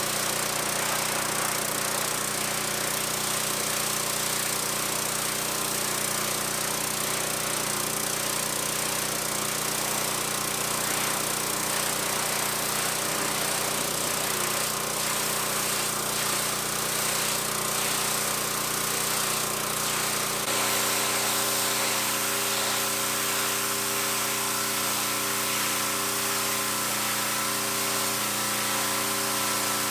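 Small gasoline engine of a pressure washer running steadily. About twenty seconds in, the low hum drops away and the pitch of the steady tones changes abruptly.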